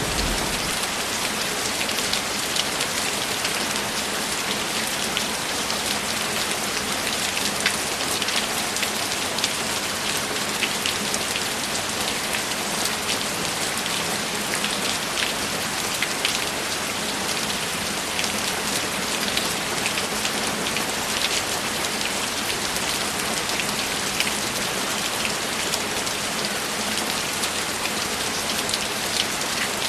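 Steady rainfall, a dense even hiss full of fine drop ticks. The tail of a low thunder rumble dies away within the first second.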